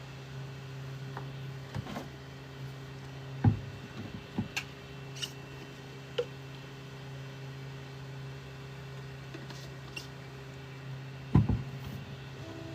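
A steady low hum with a few fainter steady tones above it, broken by scattered light clicks and two louder knocks, about three and a half seconds in and again near the end.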